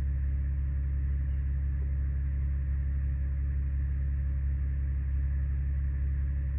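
Audi A8's engine idling, heard from inside the cabin: a steady, even low hum.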